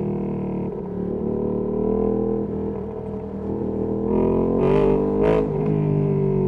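Ducati Panigale V2S V-twin with a Termignoni exhaust running under way. Its note sags a little and quietens around three seconds in, then picks up and gets louder, with two short hissy bursts near five seconds in.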